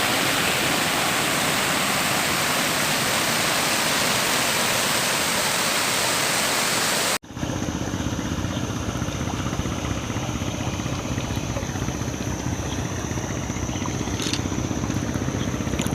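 Steady rush of river water, an even hiss. About seven seconds in it cuts off abruptly to a quieter steady rumble with a low hum and a thin, high, steady whine.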